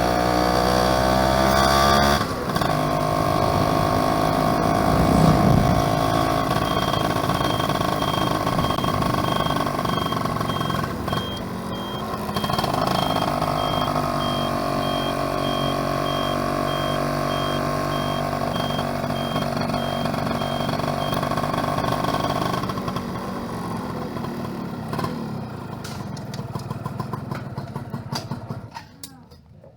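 Yamaha F1ZR two-stroke motorcycle engine running under way, with gear changes about two seconds in and again around twelve seconds. After about twenty-two seconds the throttle is closed and the engine note falls away as the bike slows.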